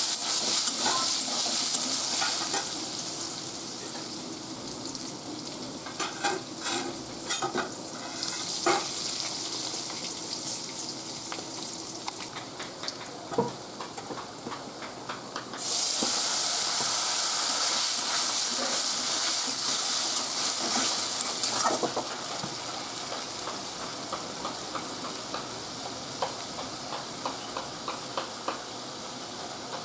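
Potato wedges frying in hot oil in an aluminium kadai, sizzling, with a metal spatula scraping and tapping against the pan. The sizzle is loud at first, quietens with a run of clicks from the spatula, then swells into a loud hiss again about halfway through for several seconds before settling back to a softer crackle.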